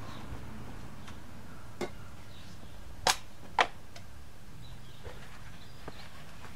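A few sharp clicks or knocks, the two loudest about half a second apart just past the middle, over a steady low background hum.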